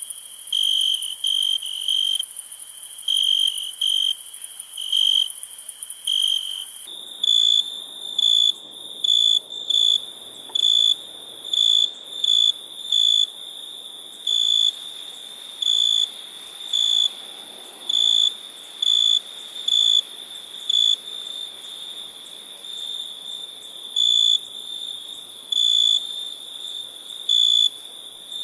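Crickets chirping at night: one loud, high-pitched chirp repeated about once a second over a steady, thinner high trill from more insects. About seven seconds in the chirp shifts a little higher in pitch and the background changes.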